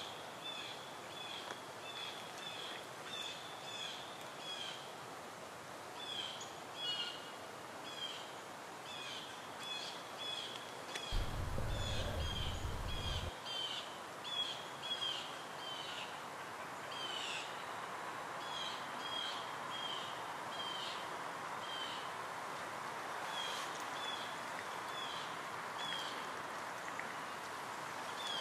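A bird calling in short, repeated chirps, about one or two a second. There is a brief low rumble about eleven seconds in, and a faint steady hum comes in during the second half.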